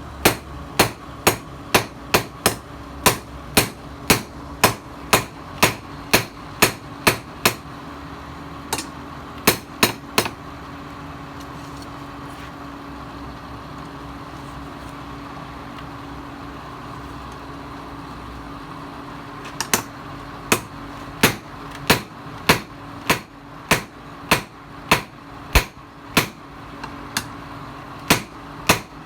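Hand hammer forging the steel of a tiller blade on an anvil: sharp ringing strikes about two a second, which stop for about nine seconds midway and then resume. A steady hum runs underneath throughout.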